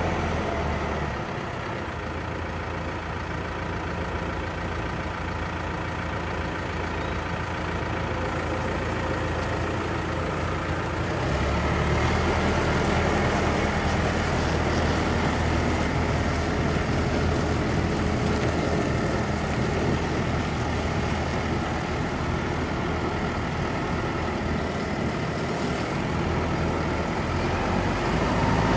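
Case IH Vestrum 130 tractor's four-cylinder diesel engine running steadily. The engine note steps up and gets louder about twelve seconds in.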